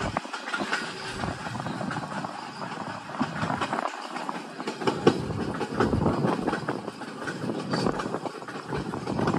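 Passenger train rolling along the track, its wheels clattering over the rails in irregular clicks and knocks, with one louder knock about five seconds in.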